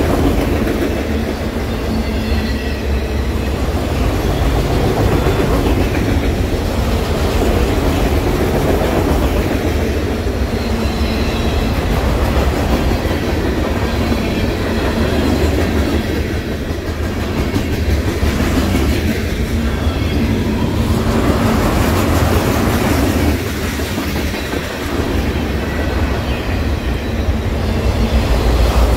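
Freight train cars, autoracks and tank cars, rolling past close by: steel wheels running on the rails in a loud, continuous noise with no let-up.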